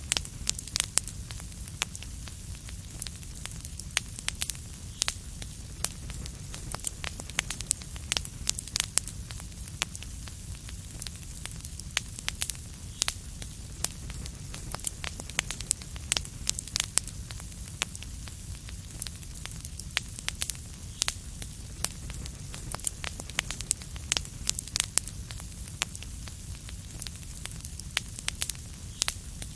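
Fire crackling steadily, with many sharp irregular pops and snaps over a low, even rumble of flame and a soft hiss.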